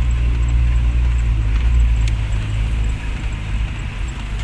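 Car with an HKS aftermarket exhaust running, a loud, deep, steady exhaust drone that eases off about three seconds in.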